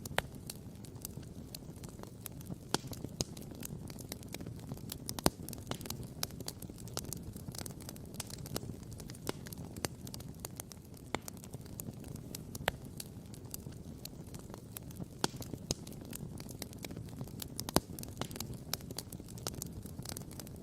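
Wood campfire crackling and popping, with many small sharp cracks and two louder pops, about five seconds in and near the end, over a low steady rumble.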